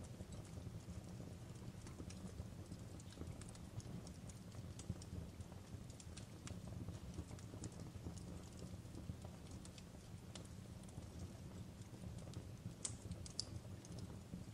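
Wood fire crackling softly: a steady low rumble of the burning fire with irregular sharp pops and snaps scattered through it, a few louder snaps near the end.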